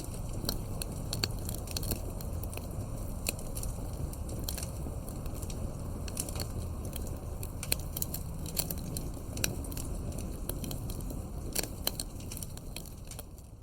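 Wood fire crackling: frequent sharp pops and snaps of burning logs over a low rumble of flames, starting to fade out near the end.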